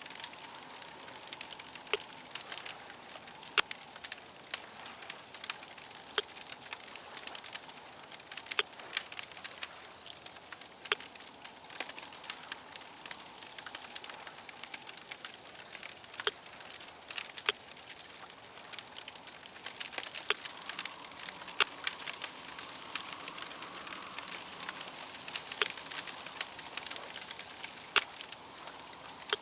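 Crackling fire: a steady hiss with frequent, irregular sharp pops and snaps.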